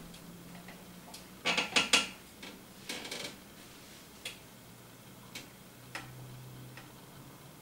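Sharp clicks and light knocks of small hard objects being handled: a quick run of four clicks about a second and a half in, a few more around three seconds, then three single ticks spaced about a second apart.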